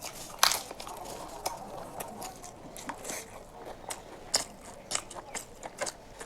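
Close-miked chewing and mouth sounds of a person eating a mouthful of biryani: a string of sharp, wet clicks and smacks, the loudest about half a second in.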